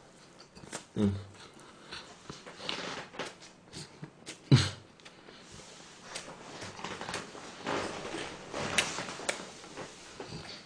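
Close-miked chewing of a full mouthful of food: scattered wet smacks and clicks, with two short hums from the eater about a second and four and a half seconds in.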